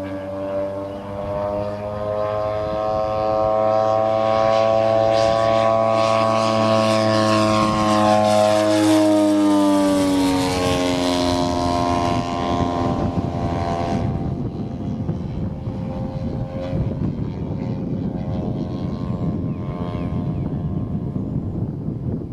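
Engine and propeller of a 1/3-scale radio-controlled Cessna 182 model flying past: the note grows louder and peaks about nine seconds in, then drops in pitch as the plane passes and fades into a rushing noise.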